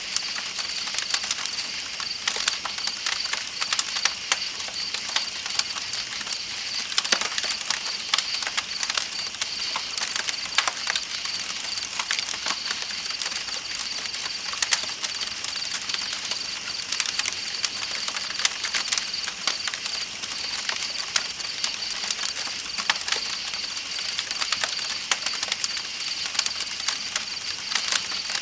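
Campfire crackling with many irregular sharp pops, over a steady chorus of night insects chirping on a high, even pitch and the continuous hiss of a flowing river.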